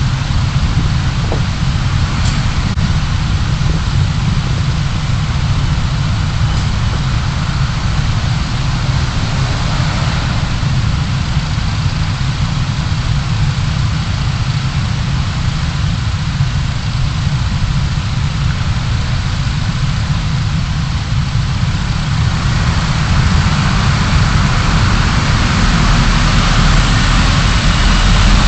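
Steady low rumble of a car being driven, engine and road noise together, growing a little louder and fuller in the last few seconds.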